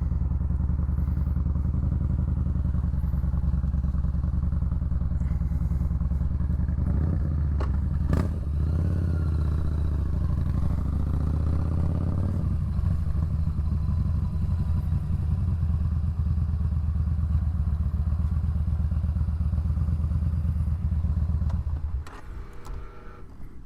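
Motorcycle engine running steadily, with a single sharp knock about eight seconds in. The engine shuts off about 22 seconds in.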